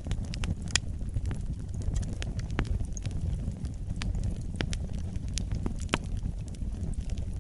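Fire burning in a fireplace: a steady low rumble of flames with irregular sharp crackles and pops. The loudest pops come just under a second in and about six seconds in.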